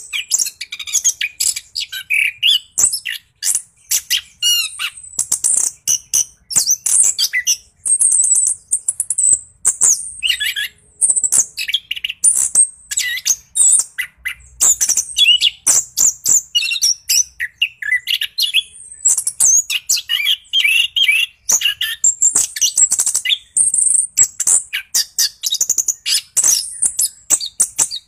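Orange-headed thrush singing a long, unbroken rolling song of rapid varied chirps, trills and whistled phrases, the full 'gacor' song that keepers play to stir a quiet bird into answering.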